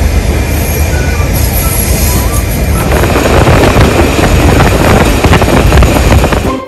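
Steam-hauled passenger train running along the line, heard from an open carriage window: a steady rushing rumble of wheels, carriage and air, growing louder from about three seconds in.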